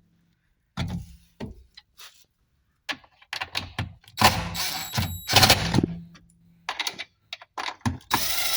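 Irregular knocks, clunks and scraping of a top-loader washing machine's back panel and parts being handled and fitted back on during reassembly.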